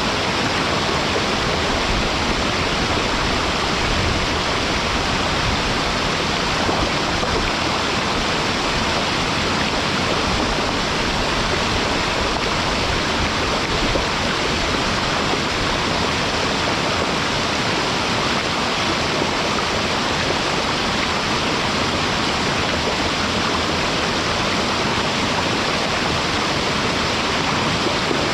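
Waterfall pouring into a mountain stream: a loud, steady rush of falling water with no breaks.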